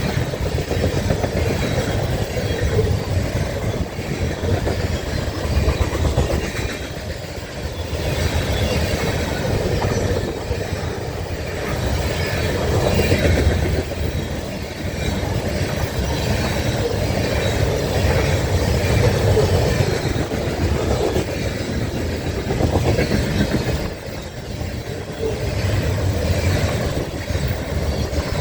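Train cars rolling past, a steady rumble with the clickety-clack of wheels over rail joints that eases briefly twice.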